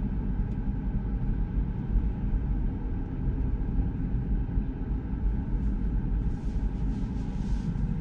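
Steady low road and tyre rumble inside the cabin of a moving Tesla Model 3, an electric car with no engine note.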